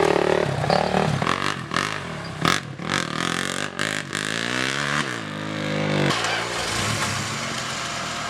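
An off-road vehicle's engine running under load while driving, revving up with a climbing pitch through the middle and dropping back about six seconds in, with a few sharp knocks along the way.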